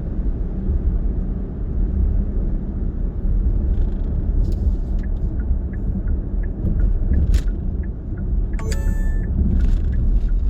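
Steady low rumble of a car driving, with road and engine noise heard from inside the cabin. A few faint ticks and a brief electronic tone come near the end.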